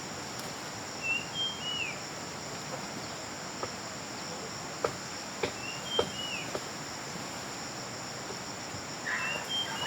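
Steady, high-pitched chorus of insects, crickets or cicadas, with a bird giving a short chirping call three times. A few sharp knocks or clicks come around the middle.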